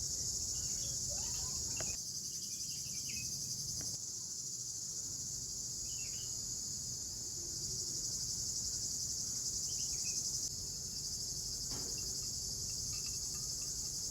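Steady chorus of crickets, a dense high-pitched trill, with a few faint bird chirps.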